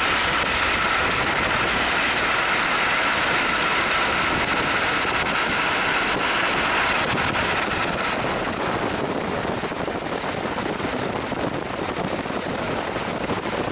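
Steady road noise and engine of a moving car heard from inside the cabin, with a whine that drops away about eight seconds in, leaving a slightly quieter rushing noise.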